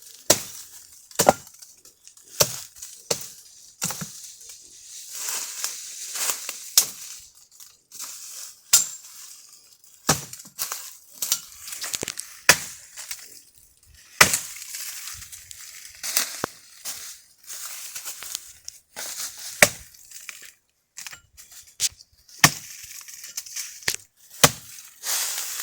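Dry firewood sticks knocking and clattering together at irregular moments as they are stacked into a bonfire pile, with rustling of dry twigs and brush between the knocks.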